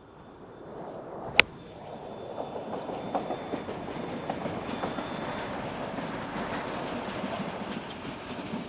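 A golf club strikes a ball off the tee with a sharp crack about a second and a half in. Then a passing train builds up and runs on steadily, its wheels clicking over the rails.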